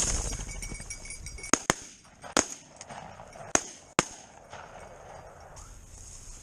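A handful of sharp, short clicks, about five spread over the first four seconds, over a steady faint outdoor hiss, with a low rumble at the very start.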